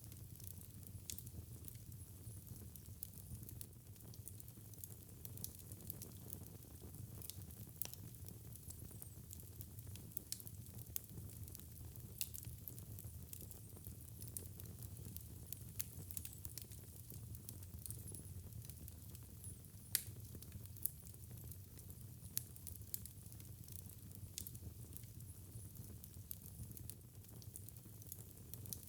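Wood fire crackling in a fireplace: irregular sharp pops and snaps over a low steady rumble, with one louder pop about two-thirds of the way through.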